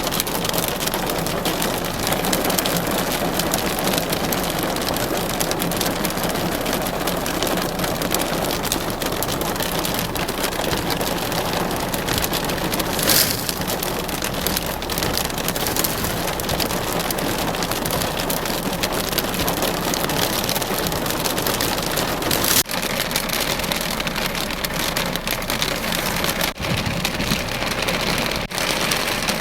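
Hailstorm: a dense, steady clatter of hailstones and heavy rain pelting down, with countless small sharp hits and one louder strike about thirteen seconds in.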